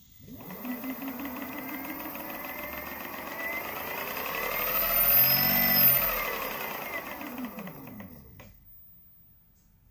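The B10 Atom's motor spinning up and back down, its pitch rising to a peak midway and then falling until it stops, with a fast regular ticking running through it: the ticking noise the owner is showing.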